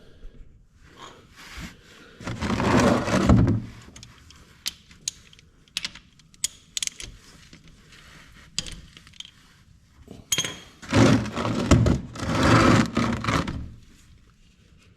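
Handling noises under a quad bike during an oil change: metal clinks and knocks from tools, with two longer scraping passes about two and eleven seconds in, as the drain pan is set in place under the drain bolt.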